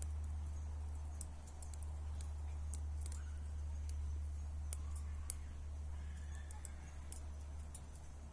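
Wood bonfire crackling: irregular sharp pops and snaps, several a second at times, over a steady low hum.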